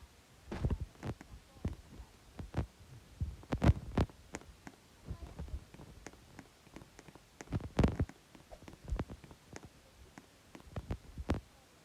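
Irregular soft thumps and clicks, a dozen or so spread unevenly, the loudest about four and about eight seconds in.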